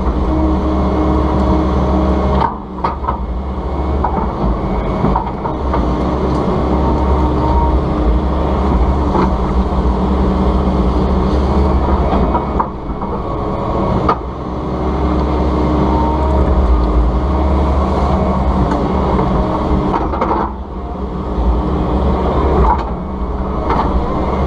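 Volvo ECR145EL excavator running steadily at working revs, with occasional sharp knocks from the machine at work.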